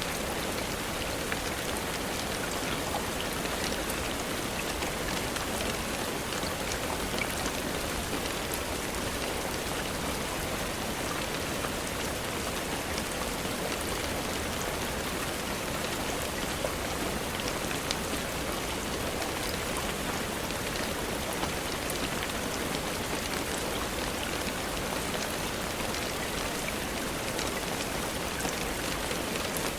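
Steady rainfall, an even hiss with scattered small ticks of individual drops.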